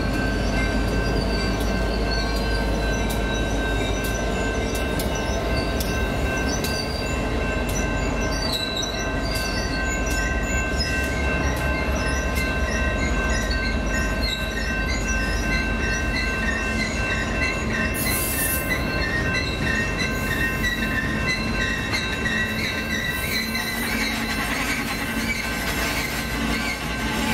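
Freight train of tank cars, boxcars and covered hoppers rolling past with a steady low rumble. Its wheels squeal in steady high-pitched tones, with many short repeated squeaks over them.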